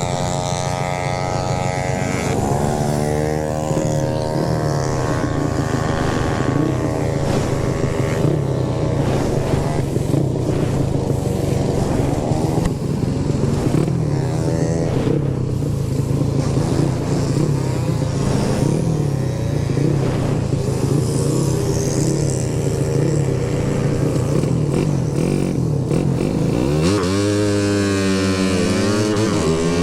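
Motorcycle engine running steadily as the bike is ridden, with a haze of road and wind noise. Near the end the revs climb and fall off again.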